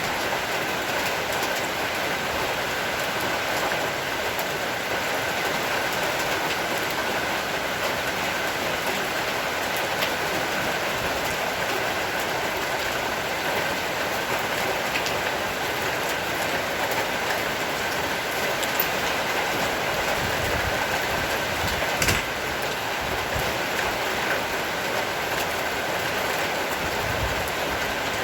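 Heavy rain shower falling steadily, a dense even hiss. A few low rumbles come through near the end.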